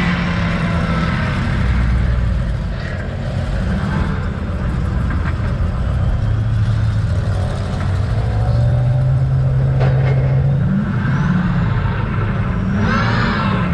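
Twin-turbo Duramax diesel engine of a mega truck running as it drives, its pitch shifting up and down. Near the end a rising whine comes in.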